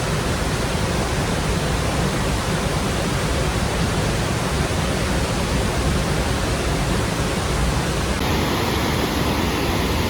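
Steady, loud rush of falling water from the Lechfall waterfall, with a slight change in its tone about eight seconds in.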